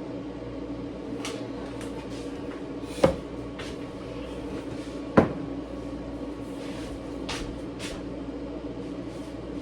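Kitchen clatter: two sharp knocks about three and five seconds in, among several lighter clicks, over a steady low hum.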